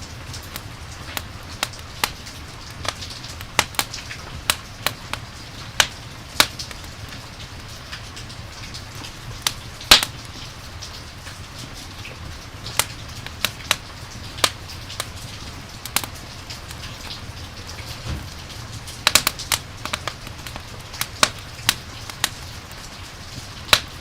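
Campfire crackling with irregular sharp pops, one or two a second, over a steady hiss of falling rain.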